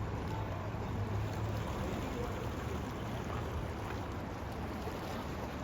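Steady rush of river current, with a low rumble in the first second or so.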